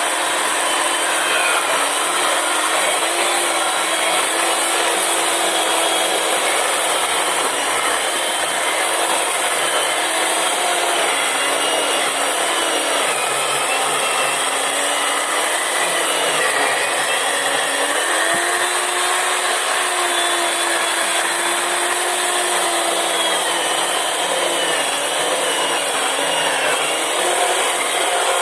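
Chainsaw running and cutting wood, its engine pitch dipping and rising again and again as the chain takes load.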